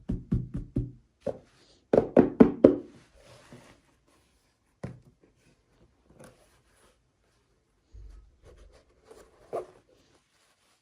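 Toy packaging and pieces being handled in an unboxing: quick runs of knocks and taps. About six come in the first second, a louder cluster of five follows around two seconds in, then a few scattered clicks.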